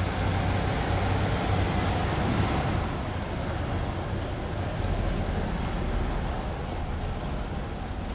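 1967 Lincoln Continental's V8 engine running at low speed as the car pulls slowly into a garage, a steady low rumble.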